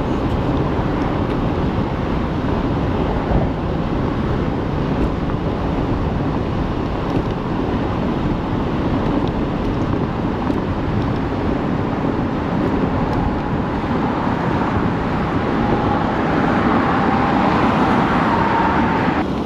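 Wind rushing over the camera microphone with road and tyre noise from an ONYX RCR 80v electric moped cruising at about 27 mph. A faint whine comes up near the end.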